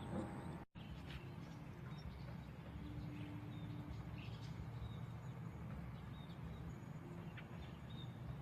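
Quiet outdoor ambience: a steady low background rumble with faint, scattered bird chirps, broken by a brief dropout just under a second in.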